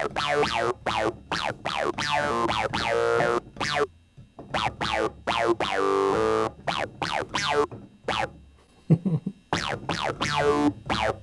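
Fender Rhodes electric piano played through an Electro-Harmonix Bass Mono Synth pedal on its Twin setting, giving single synth notes one after another. Each note starts bright and its tone sweeps down quickly as it fades.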